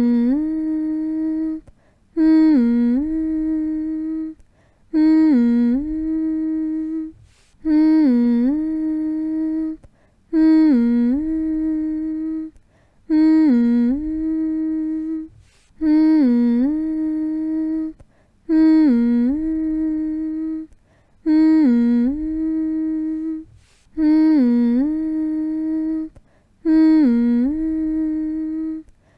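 A person humming one steady note over and over in a slow, even cycle, each hum lasting about two and a half seconds with a brief dip in pitch near its start, separated by short breaths of silence: a repetitive hum to soothe a baby to sleep.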